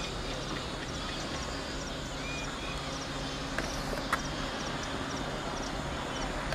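Birds chirping over a low steady hum, with two short clicks about three and a half and four seconds in.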